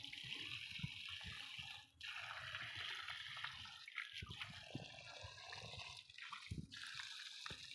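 Faint running water from an open tap, splashing steadily, with a brief drop about two seconds in.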